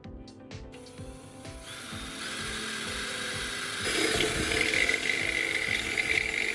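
Electric drill with a step bit cutting through the stainless steel kettle body. It runs in a few short pulses at first, then steadily, and from about four seconds in it is louder and higher-pitched as the bit bites into the metal.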